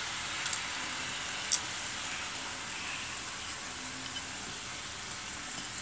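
Bottle gourd pieces frying in a wok with a steady, faint sizzle, with one sharp click about one and a half seconds in.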